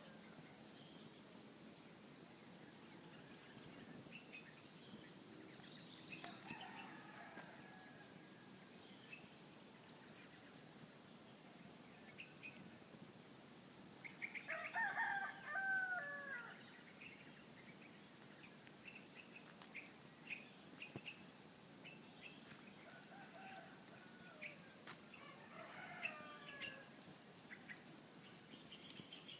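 Roosters crowing: one louder crow about halfway, with fainter, more distant crows before and after it, over small bird chirps and a steady high-pitched insect drone.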